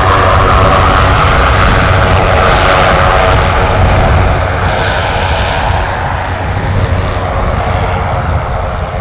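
Aircraft engines running loud and close, with a steady dense drone that eases slightly from about halfway through.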